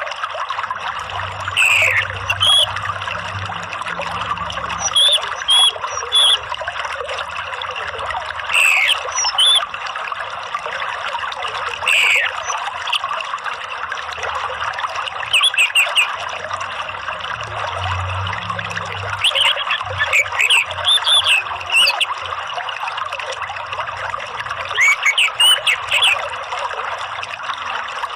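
Steady trickling water with an orange-headed thrush singing over it in short bursts of quick whistled notes and downward-sweeping calls every few seconds.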